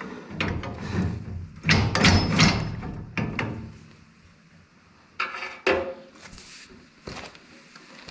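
Metal clunks and knocks from a bolt being worked through the mounting bracket of a three-point-hitch brush cutter. They come in bursts: one just after the start, the loudest cluster around two seconds in, and two sharp knocks a little after five seconds.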